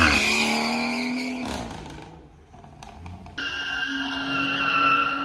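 Car engine revving hard with tyres squealing, as in a burnout or drift. The sound fades out about two seconds in, and after an abrupt cut another stretch of engine and tyre squeal starts.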